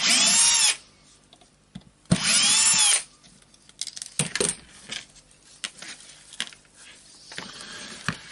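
Electric screwdriver spinning screws out in two short runs, each whining up in pitch and back down, then light clicks of small parts being handled.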